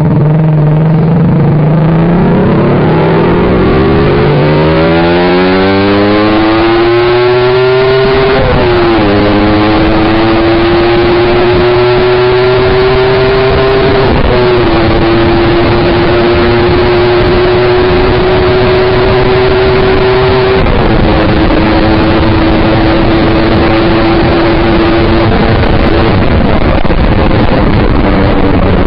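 Yamaha R15 V3's 155 cc single-cylinder engine through an aftermarket SC Project exhaust, accelerating through the gears. Its pitch climbs for about eight seconds, then drops at upshifts about nine, fourteen and twenty-one seconds in, over a steady rush of wind noise.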